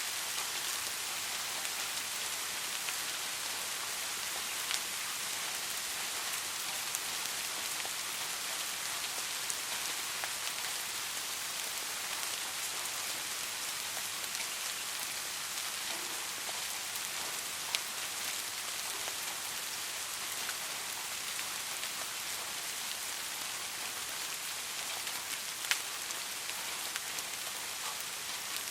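Soft rain falling steadily, an even hiss with a few louder single drops ticking now and then.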